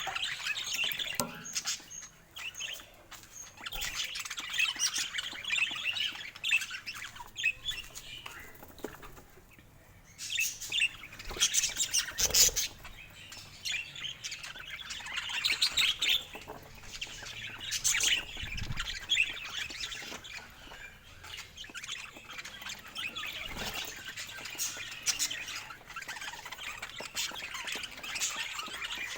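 Parakeets chirping and chattering continuously, with scattered sharper, louder calls and a brief lull about a third of the way through.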